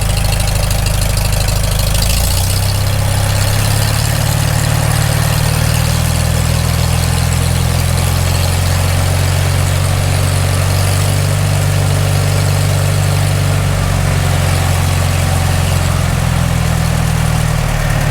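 Freshly rebuilt Farmall Super M four-cylinder engine running on its first warm-up after the rebuild. About two seconds in it is brought up to a higher speed and held there, then it settles back down near the end.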